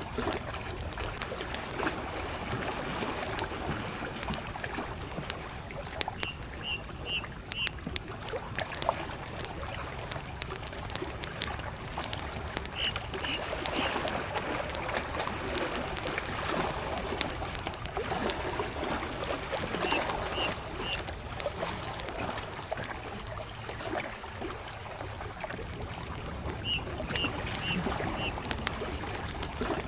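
Wood campfire crackling with many small sharp pops over soft lake waves lapping on the shore. A distant bird repeats a short phrase of three or four high notes about every seven seconds.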